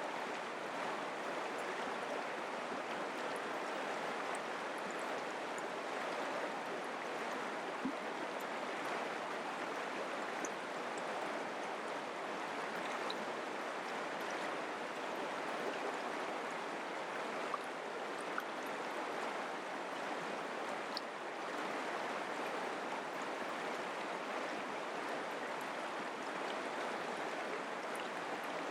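Mountain creek flowing: a steady, even rush of water with a few faint ticks here and there.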